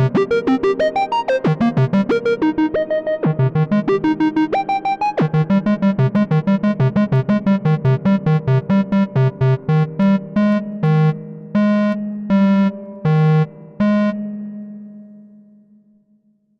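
Moog Grandmother analog synthesizer playing a fast arpeggio of short repeated notes. About ten seconds in it breaks into a handful of separate, longer notes, and the last one dies away to silence near the end.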